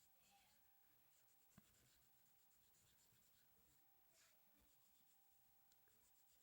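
Faint scratching of a Faber-Castell felt-tip marker stroking back and forth on a colouring-book page, with one light tap about a second and a half in.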